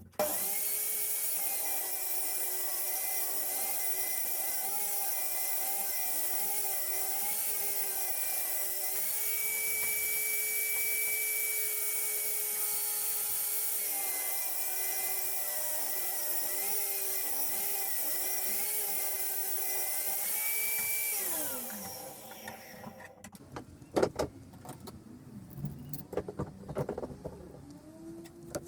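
A high-speed electric power tool runs while cutting wood, its steady whine dipping slightly in pitch at times as it is loaded. About three-quarters of the way through it is switched off and spins down with a falling pitch, followed by scattered knocks and clicks of wood being handled.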